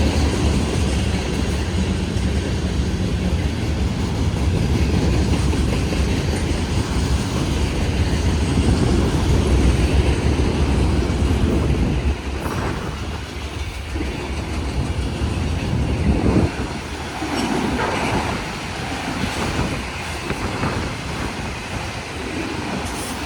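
Union Pacific freight train rolling past at close range: a steady low rumble of cars and wheels, turning about halfway through into an uneven clatter of wheels over rail joints that rises and falls.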